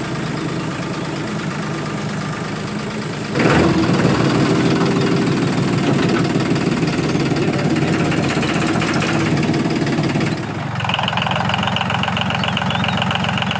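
Diesel tractor engine running with a knocking idle, getting louder about three and a half seconds in. Near the end the sound changes to a different, higher, evenly repeating pattern.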